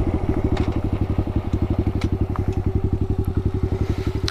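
Kawasaki KLX110 pit bike's single-cylinder four-stroke engine idling with a steady, even putter. A few sharp clicks and light clatter sound over it.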